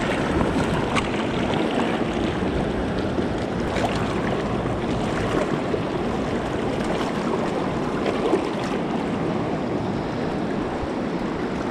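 Creek water rushing and burbling steadily.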